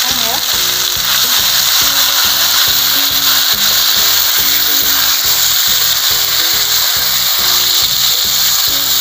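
Stewed beef tripe frying in a little hot oil in a pan, sizzling steadily as it is turned with a wooden spatula. Background music with a steady beat plays underneath.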